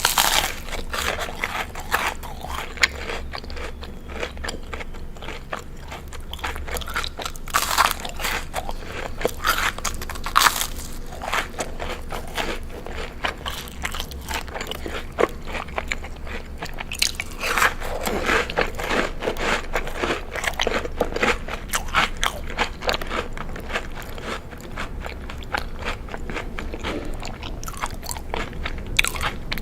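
Close-miked crunchy food being bitten and chewed, a dense run of crackling crunches. There are louder bites at the start, around 8 and 10 seconds in, and a busy stretch of chewing between about 17 and 21 seconds.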